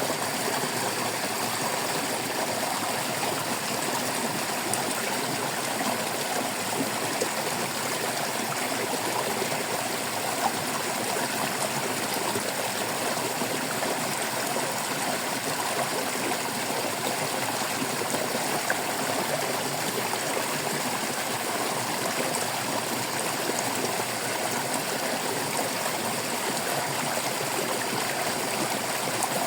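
Stream water babbling and trickling steadily, with faint small splashes here and there.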